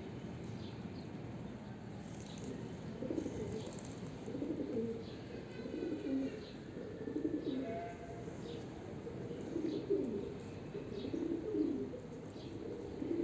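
Domestic pigeons cooing, with a low warbling coo every second or two, over faint short high chirps.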